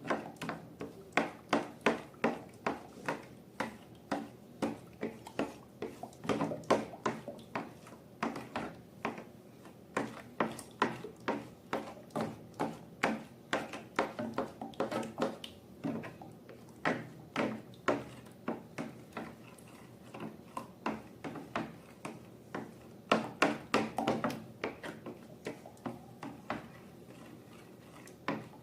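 Slime being squeezed and pressed by hand, making a run of short wet clicks and pops, about two or three a second, with a couple of quieter pauses.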